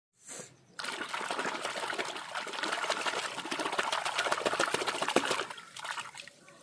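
Water running and splashing, starting suddenly about a second in and dying away near the end.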